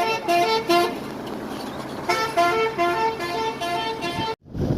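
A vehicle's musical horn sounding a quick two-note pattern, alternating a low and a high tone about four times a second, in two bursts with a pause of about a second between them. The sound cuts out briefly near the end.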